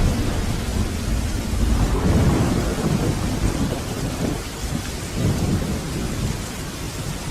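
A long roll of thunder rumbling over steady rain. It swells over the first couple of seconds and then fades away.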